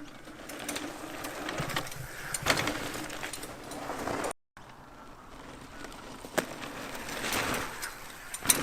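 Mini mountain bike's tyres rolling over a packed-dirt jump, the noise swelling as the rider approaches and goes over. It happens twice, with a sharp knock near the end, typical of the bike landing.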